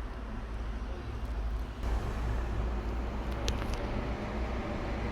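Heat gun blowing steadily, getting louder just under two seconds in, as it heats the phone's frame to soften the back-glass adhesive.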